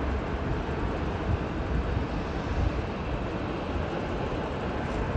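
Steady low rumble of a Boeing 777-300ER's GE90-115B turbofan engines at takeoff thrust.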